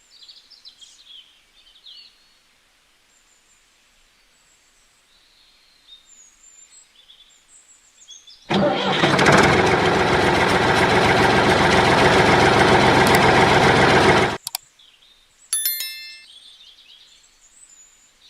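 Birds chirping faintly, then about eight seconds in an engine starts with a sudden loud burst and runs steadily for about six seconds before cutting off abruptly. A short chime rings shortly after.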